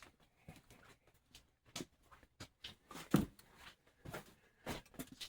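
Scattered light clicks and knocks of things being handled, with one louder knock about three seconds in.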